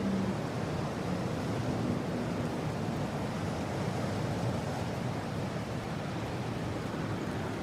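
Steady rushing mountain wind: an even hiss with no single gust or event standing out.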